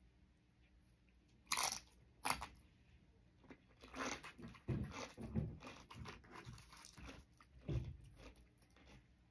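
Close-up crunching of a Doritos tortilla chip dipped in beans and cheese: two loud bites about one and a half and two seconds in, then several seconds of crunchy chewing.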